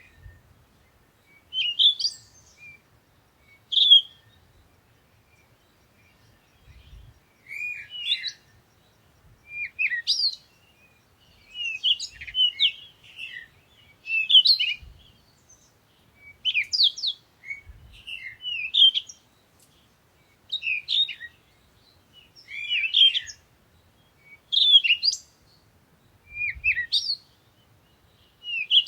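Songbirds singing in a forest, short chirping phrases repeating about every second or two, with a pause of a couple of seconds shortly after the start.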